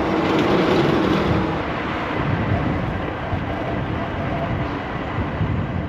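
A truck passing close by, its engine and tyre noise swelling over the first second and then holding as a steady rumble, with an engine tone that fades after about a second and a half.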